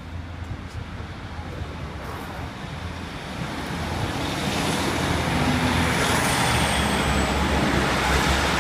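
Class 156 diesel multiple unit approaching and passing over a level crossing: engine drone and wheels on the rails, growing louder from about four seconds in, with a faint high whine that drops in pitch around six seconds in.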